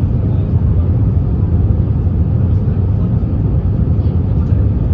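Steady low rumble of an Airbus A321neo's CFM LEAP-1A engines and airflow, heard from inside the passenger cabin.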